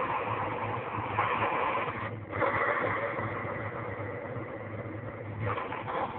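Wagner wallpaper steamer blowing steam onto freezer ice: a steady hiss over a low hum, briefly dropping away about two seconds in.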